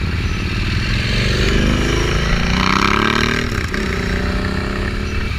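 Motorcycle engine accelerating: its pitch climbs for a couple of seconds, drops sharply about three and a half seconds in as it shifts gear, then runs steadily, over a constant low rumble.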